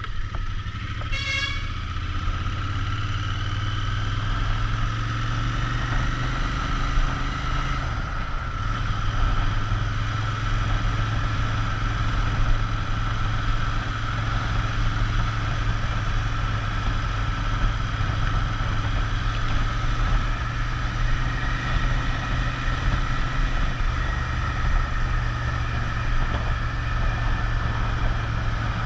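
Royal Enfield Interceptor 650's parallel-twin engine running steadily under way. A short break in its note comes about eight seconds in, like a gear change.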